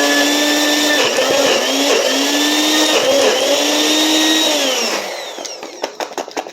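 Countertop blender running on frozen fruit and juice, its motor pitch dipping and recovering about once a second as the blades catch frozen chunks. About five seconds in the motor winds down with a falling pitch, followed by a run of quick clicks.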